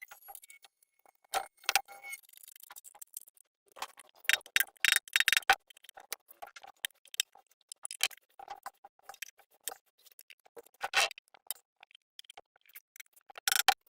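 Irregular metallic clicks, clinks and light clatter of tools and small metal parts being handled while working on a generator, with a few sharper knocks, the loudest about four to five seconds in and near eleven seconds.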